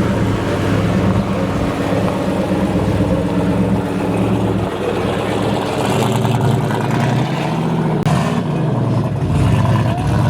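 Car engine running loudly, its pitch rising and falling with revving in the second half and changing abruptly about eight seconds in.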